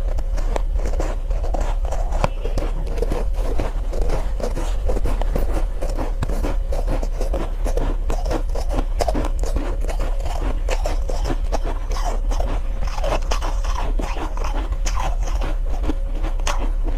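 Close-up chewing and crunching of soft, powdery ice: a dense, continuous run of fine crackles and crunches with no pauses, over a steady low hum.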